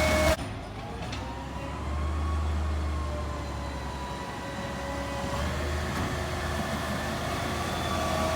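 Rear-loader garbage truck engine running as the truck moves, its pitch slowly rising and falling over a steady low hum. A louder machine sound cuts off abruptly just after the start.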